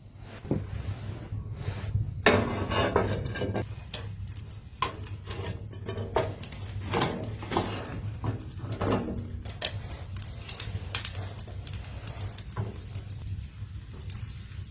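Irregular clatter of small knocks and clinks, like cookware being handled, over a steady low hum.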